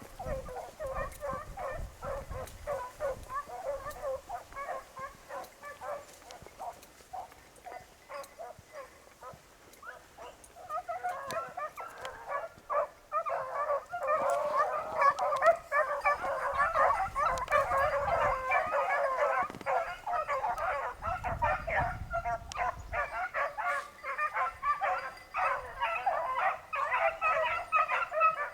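A pack of beagles baying and yelping with many overlapping voices as they run a rabbit on its scent. The cry thins to a few distant voices a few seconds in, then swells louder and fuller from about eleven seconds on.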